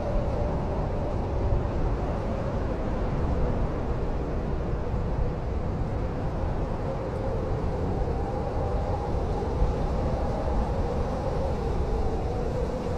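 Blizzard wind blowing steadily with a low rumble, a faint howling pitch wavering up and down through it.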